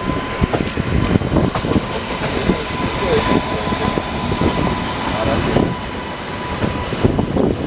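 Passenger train running at speed, heard from aboard a coach: a steady rumble with irregular clatter and knocks of wheels over the track.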